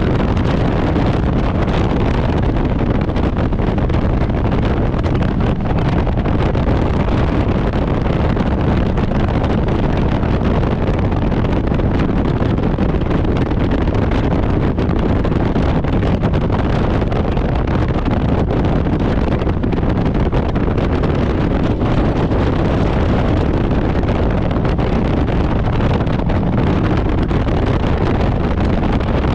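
Harley-Davidson Road Glide's V-twin engine running at a steady cruise, under heavy wind noise on the microphone, with no change in speed.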